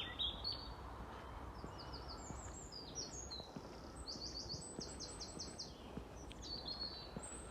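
A songbird singing in several phrases, each a quick run of short high notes that slide down in pitch, over a faint steady low rumble.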